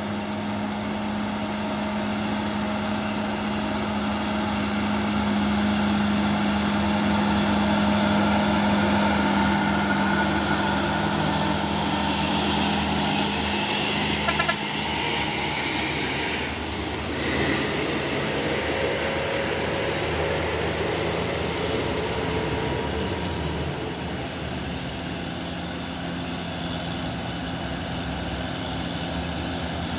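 Heavy truck diesel engines running, their pitch rising and falling, with a brief sharp clank about halfway through.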